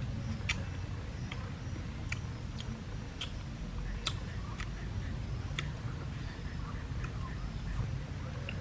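Mouth sounds of someone eating shrimp curry by hand: chewing and lip smacks, short sharp clicks coming irregularly about twice a second, over a low steady rumble.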